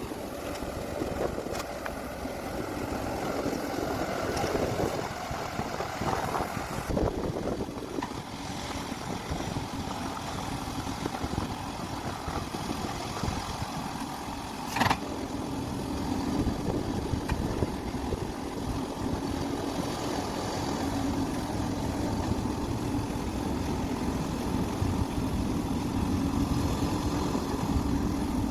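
Diesel engines of a large hydraulic excavator and dump trucks running steadily during loading, with a single sharp knock about halfway through.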